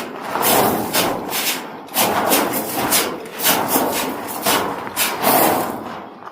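Rough scraping and rubbing noises in irregular strokes, swelling and fading every second or so, and dying away near the end.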